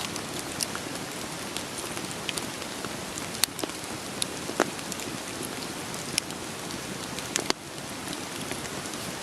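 Steady rain with scattered sharp pops of a crackling wood fire, roughly one a second. About seven and a half seconds in, a sharp click is followed by a slight drop in level.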